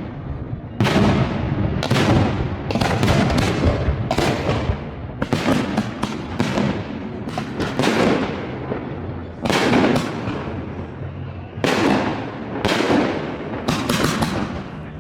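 Fireworks display: a rapid run of aerial shell bursts, one sharp bang after another with booming echoes, about a dozen in the span and several close together.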